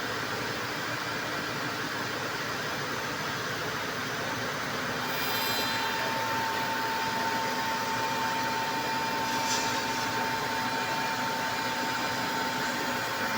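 4-axis CNC wood router machining a chair leg: a steady mechanical noise throughout. About five seconds in, a steady whine joins and the sound gets a little louder.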